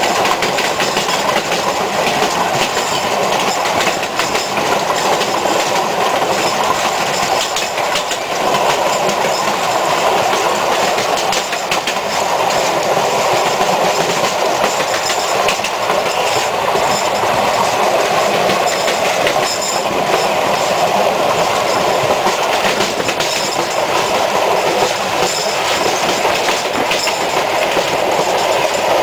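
Sóller railway train running at a steady speed, heard from inside a carriage: an even, loud rumble of wheels on track with a faint clickety-clack over the rail joints.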